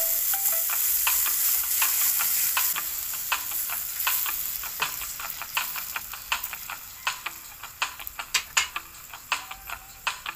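Squid frying in margarine and oil in a ceramic-coated pan, sizzling as it is stirred with a wooden spatula that clicks and scrapes against the pan. The sizzle dies down gradually while the spatula clicks carry on.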